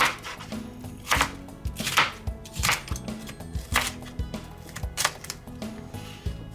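Kitchen knife chopping peppers on a cutting board: single sharp chops, about one a second and unevenly spaced.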